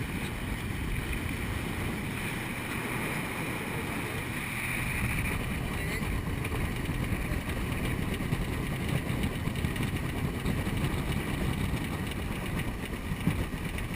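Motorboat engine running steadily while the boat is underway, with wind buffeting the microphone.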